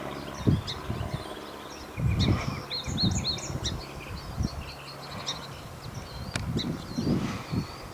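Small songbirds chirping and singing, with short repeated whistled notes, over irregular low thuds or rumbles.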